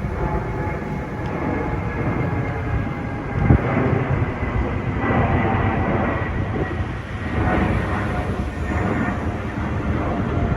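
Boeing 787-9 airliner noise: a steady rumble that swells and eases several times, with one sharp thump about three and a half seconds in.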